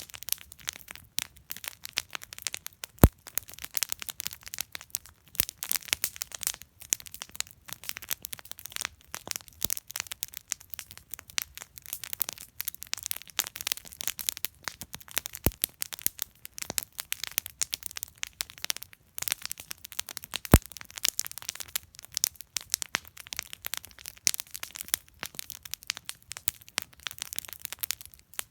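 Wood campfire burning with constant irregular crackling, and a few sharp louder pops from the burning wood.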